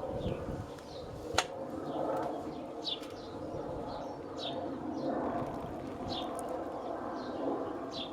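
A small bird calling repeatedly in short, high, falling chirps about once a second, over a steady background rush. A single sharp click about one and a half seconds in.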